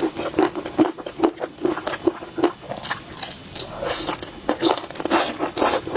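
Close-miked chewing of boneless chicken feet in spicy sauce: a steady run of short, crisp, wet crunches, about two or three a second, with a brief lull midway.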